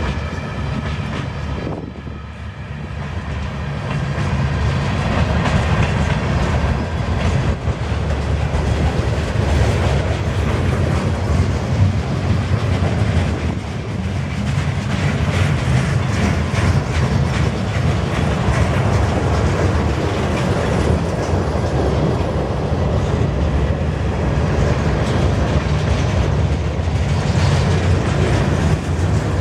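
CN train's cars rolling past, wheels clicking over the rail joints over a steady, loud rumble.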